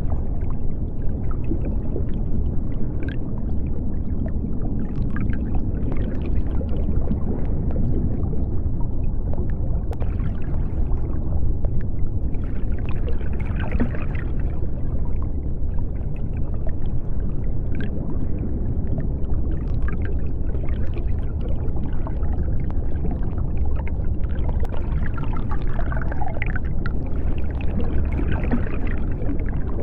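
Underwater ambience: a steady deep rumble of water with occasional higher bubbling and gurgling.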